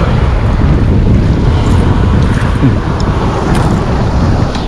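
Wind buffeting the microphone with a steady low rumble, over the wash of sea waves.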